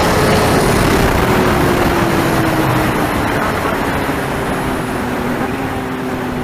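Superbike engine running hard, its note falling slowly and steadily in pitch while the loudness eases a little.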